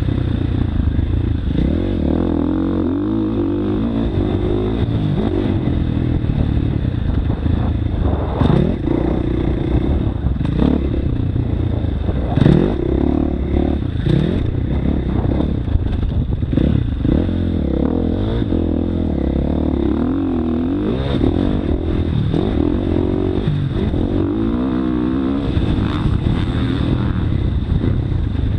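Motocross bike engine being ridden hard, its revs rising and falling over and over as the throttle opens and closes, with a few sharp knocks and rattles from the bike.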